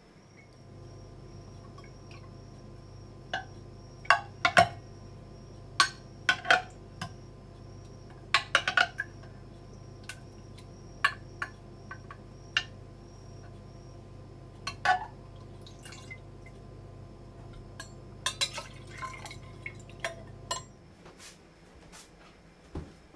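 Sharp clinks of glass and dishes with dripping liquid, over a steady low hum that stops about three seconds before the end.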